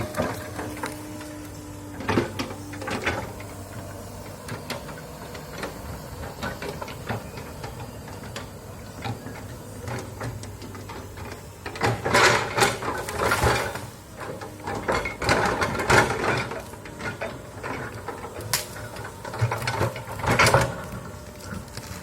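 Komatsu excavator's engine running steadily during land clearing, with repeated loud bursts of crackling noise, three clusters in the second half.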